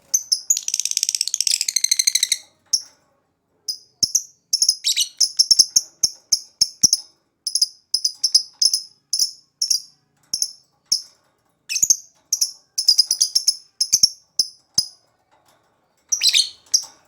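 Lovebird singing: a rapid, high trill lasting about two seconds near the start, then runs of short, high chirps in quick succession broken by brief pauses.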